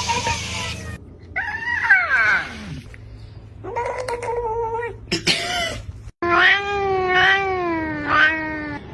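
Domestic cats meowing and yowling in several drawn-out calls. The longest is a wavering yowl of about two and a half seconds near the end.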